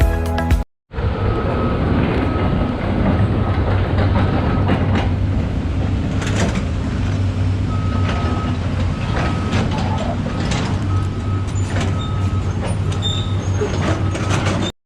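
Background music cuts off in the first second, then a train runs along the railway: a steady low rumble with wheel clatter and clicks, and a short high beep repeating at an even pace through most of it.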